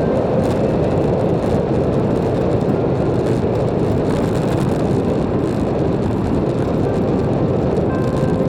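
Wind buffeting the microphone of a camera riding on a moving bicycle: a loud, steady, low rumble.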